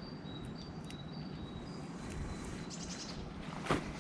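Small woodland birds singing and calling: thin, high whistled notes and a quick high trill over a steady outdoor background hum, with one brief sharp rustle or knock near the end.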